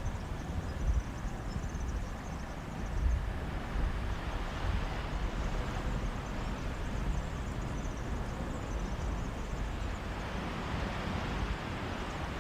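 Mediterranean sea waves washing onto a beach, swelling and easing, with sea breeze gusting in low rumbles on the microphone.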